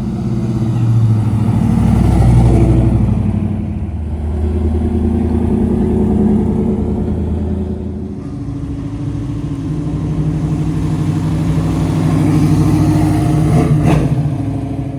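Classic cars driving past one after another as they leave, their engines running low-pitched and swelling louder and fading as each one passes, loudest about two, six and thirteen seconds in. A brief sharp sound comes near the end.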